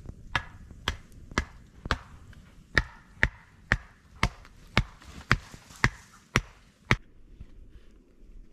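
A hand tool striking repeatedly: about thirteen sharp chopping knocks, roughly two a second, with one short pause near three seconds in. The knocks stop about seven seconds in.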